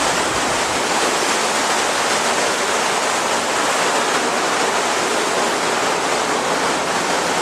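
Steady rushing noise of wind and water at a ship's stern.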